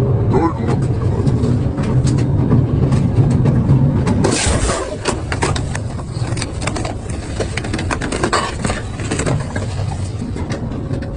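Double-shaft metal shredder running, its motor humming steadily under irregular cracks and crunches as material is torn between the cutters, with a louder crunch about four seconds in.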